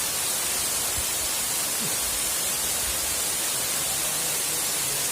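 Waterfall rushing: a steady, even hiss.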